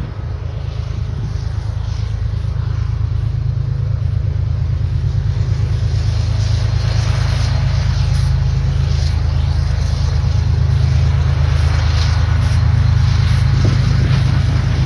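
Diesel freight locomotive's engine rumbling low and steadily, growing gradually louder as the train approaches.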